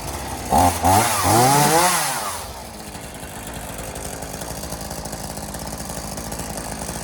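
Gas chainsaw revved up and down in quick bursts, then settling to a steady idle for the rest of the time.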